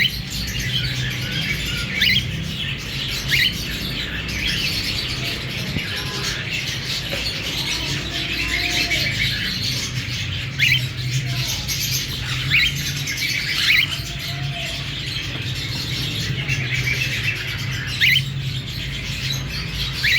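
Cockatiels chirping and calling over a continuous dense chatter of many birds, with a short sharp call standing out every few seconds. A steady low hum runs underneath.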